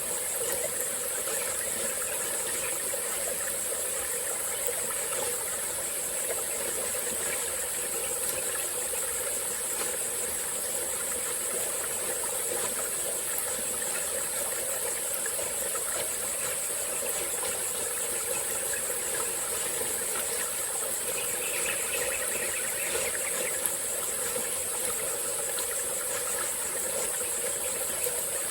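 Small tropical-forest stream running and trickling, with a steady high-pitched drone of insects over it.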